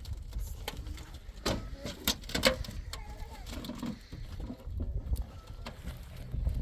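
Wind rumbling on the microphone, a few sharp knocks, and short calls from a flock of sheep.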